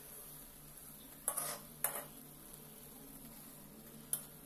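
Bread pieces deep-frying in hot oil and ghee in a kadai, a faint steady sizzle, with a utensil scraping and knocking against the pan three times as the pieces are stirred.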